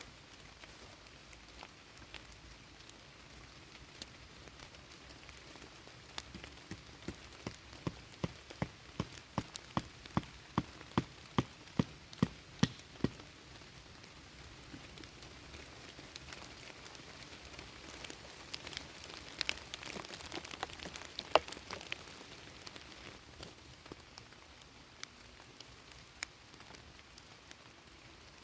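Steady rain falling. Partway through comes a regular run of knocks, two to three a second, getting louder for several seconds, and later a few scattered sharp clicks, one of them the loudest sound.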